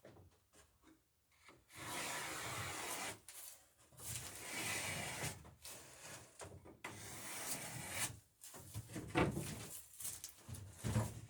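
Wood rubbing and sliding against wood in three stretches of a second or so each, then a few knocks near the end, as boat planking is handled for spiling.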